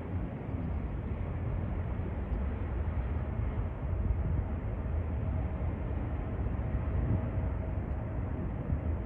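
Jet airliner engines running, a steady rumble with a faint steady whine in the middle of it.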